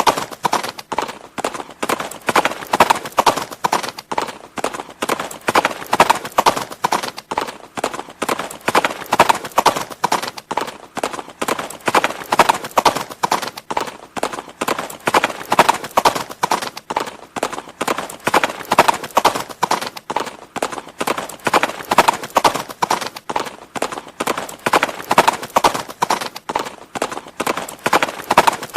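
Horse hooves clip-clopping steadily, a dense run of hoofbeats that swells and eases in loudness about every three seconds.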